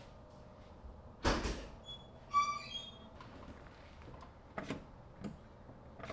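A single thud, then a brief high squeak and a few light clicks, the sounds of hands working on the car before the engine is started.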